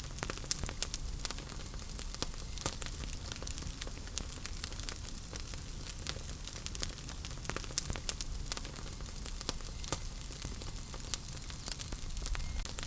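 Wood fire burning in a fireplace: irregular sharp crackles and pops over a steady hiss and low rumble of the flames.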